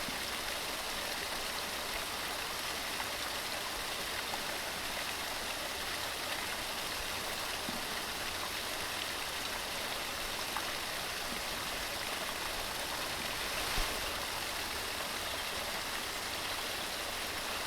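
Waterfall: water tumbling over rocks in a steady, even rushing hiss, with one brief slightly louder moment about fourteen seconds in.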